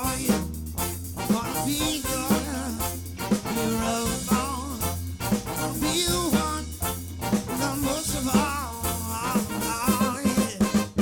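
Live band playing an upbeat swing/ska-style groove: a steady bass line and drum kit under a wavering melodic lead, with a busier run of drum hits near the end.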